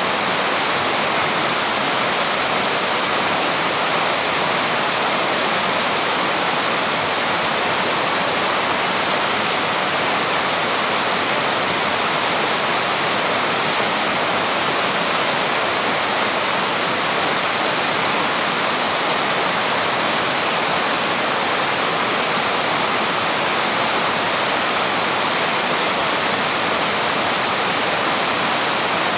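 Waterfall on a small river, a steady full rush of falling and splashing water with no change in level.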